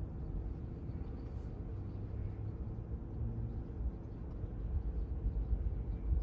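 Steady low rumble and hum heard from inside a car parked in a Washworld Razor touchless car wash, while the pre-soak dwells and nothing is spraying.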